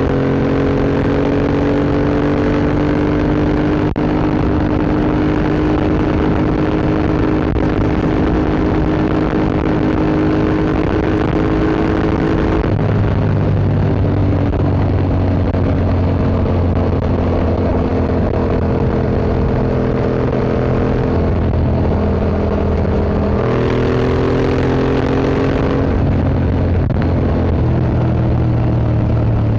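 2025 Yamaha MT-07's 689 cc parallel-twin engine through an Akrapovic Racing Line exhaust, running steadily under way. Its pitch holds for long stretches and steps to a new level several times, about halfway through and again near the end.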